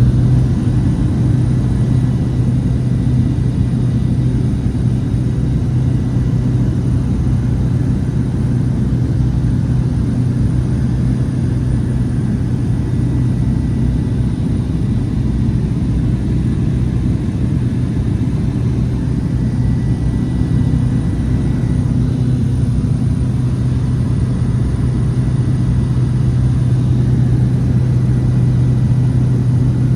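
Cessna 208 Caravan's single Pratt & Whitney PT6A turboprop engine and propeller running steadily, a loud, even low drone.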